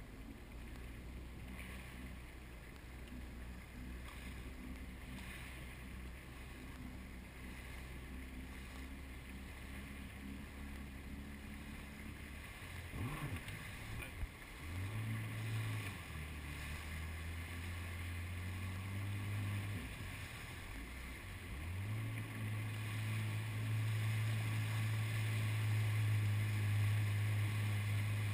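Jet ski engine running at low speed, then throttled up about halfway through, easing back, and opening up again near the end to hold a higher, louder pitch, with wind and water rushing.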